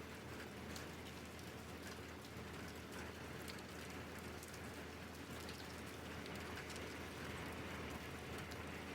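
Steady rain falling, with scattered ticks of single drops striking a hard surface.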